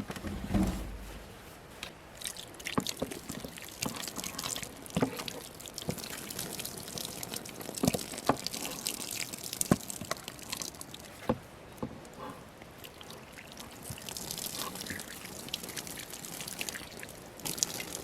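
Water trickling and dripping, with scattered separate drips or splashes through it.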